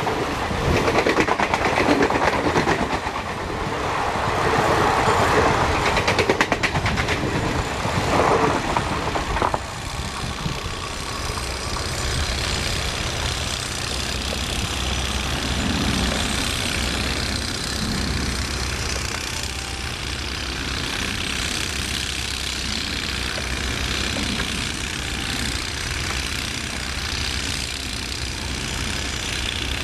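Express train coaches passing close at speed, with a loud clatter and rumble of wheels over the rail joints. About ten seconds in, this gives way to a quieter, steady low rumble of a train in the distance.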